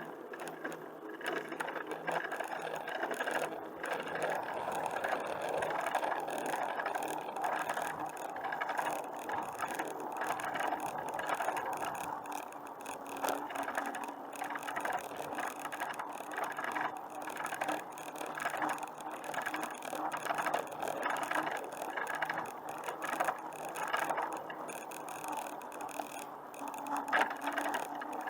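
Bicycle being ridden: a continuous mechanical rattle made of dense, fine clicking that never lets up.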